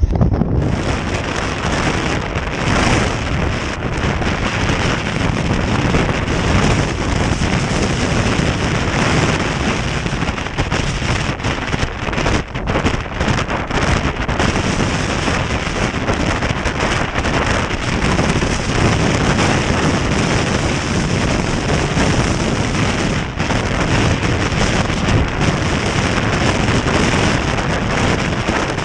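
Strong wind blasting the microphone in a hill storm: a loud, steady rushing roar with no letup.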